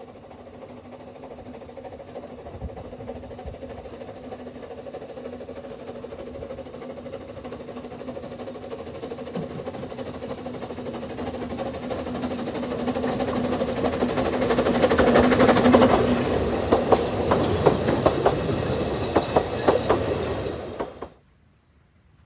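Narrow-gauge Talyllyn Railway train approaching and passing, growing steadily louder, then wheels clicking rapidly over rail joints as the carriages go by. The sound cuts off suddenly near the end.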